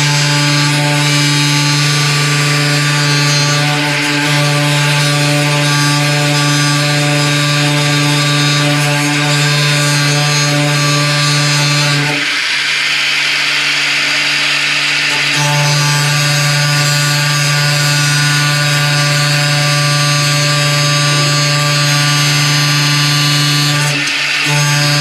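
A handheld power tool cutting into the steel car body around the old door hinges: a steady motor hum under a harsh cutting hiss. The hum drops away for a few seconds about halfway through while the hiss carries on, then returns, with a brief break near the end.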